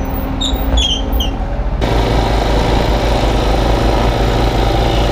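Kubota U35-3 mini excavator's diesel engine running steadily while the machine reverses, with a few short high chirps over it in the first two seconds. About two seconds in the sound changes abruptly and the engine runs on, a little louder.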